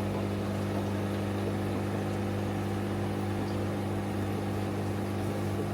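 A steady low mechanical hum at an unchanging pitch, like an idling motor or electrical machine.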